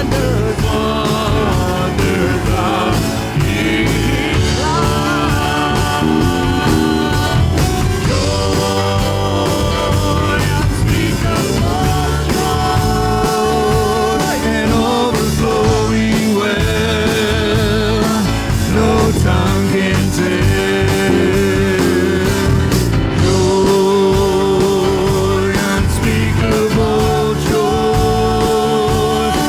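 Church worship band playing a song, with voices singing over a full band accompaniment.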